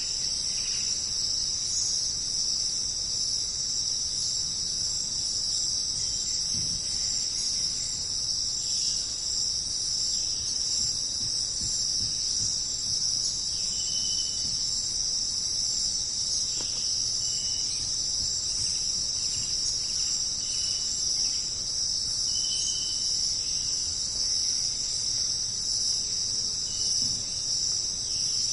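Jungle night ambience: a steady, dense, high-pitched insect chorus of crickets, with short high chirps from another animal every few seconds.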